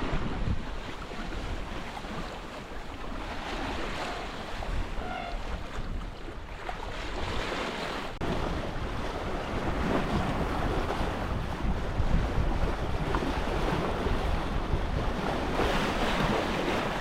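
Water rushing along a sailboat's hull as it sails slowly downwind, with wind buffeting the microphone: a steady rushing noise with a low rumble, swelling slightly about halfway through.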